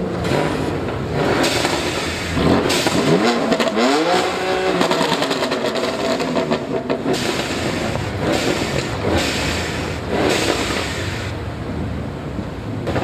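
A car accelerating hard with a loud exhaust, its engine pitch climbing steeply between about two and five seconds in, with more engine noise after.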